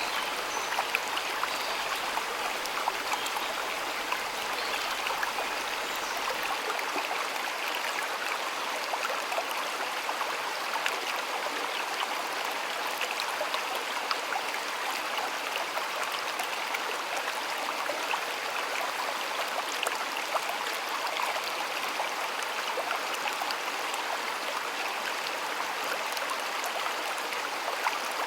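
Flowing water of a shallow stream: a steady rush, with many small splashes and drips ticking through it.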